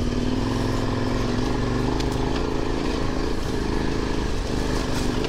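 KTM motorcycle engine running under load up a sandy hill climb, its pitch holding fairly steady. A couple of sharp ticks sound over it, about two seconds in and near the end.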